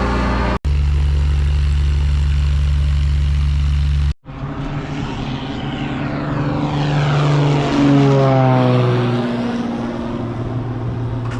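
Light propeller airplanes: a steady engine drone that cuts off abruptly twice, then a plane passing by, its engine pitch sliding down as it goes past about eight seconds in.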